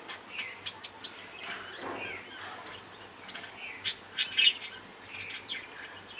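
Five-day-old budgerigar chick chirping: a run of short high chirps, some sliding down in pitch, with a louder cluster about four seconds in.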